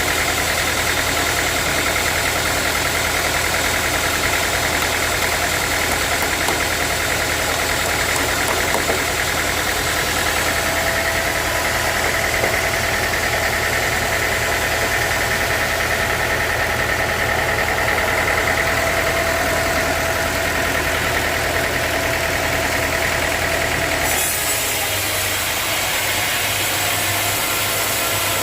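Sawmill machinery running steadily with a motor hum and a constant whine; the sound changes near the end, the whine dropping away and the low hum shifting.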